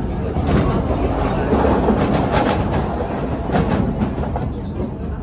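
Singapore MRT train running along the track, heard from inside the carriage: a steady rumble with several sharp clacks as the wheels pass over rail joints.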